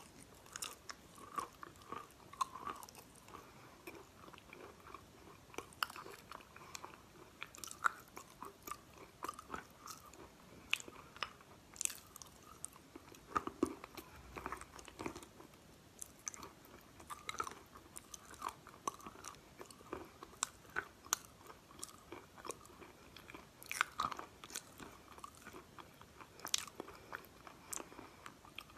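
Crunching and chewing of chunks of chalk, with many irregular sharp cracks as the pieces break between the teeth.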